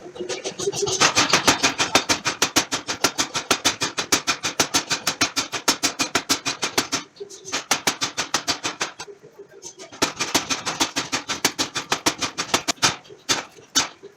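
Power hammer forging hot steel with rapid, evenly spaced blows, several a second, stopping briefly twice and ending with slower single blows.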